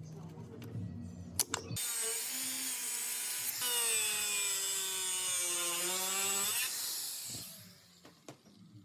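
A power tool working on metal, loud and gritty with a motor whine whose pitch sags under load and climbs back before it winds down. Light background music with a few clicks comes before it.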